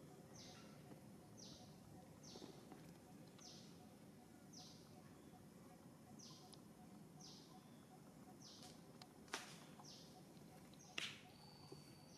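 Faint bird call, a short falling chirp repeated about once a second. Two sharp clicks stand out about nine and eleven seconds in.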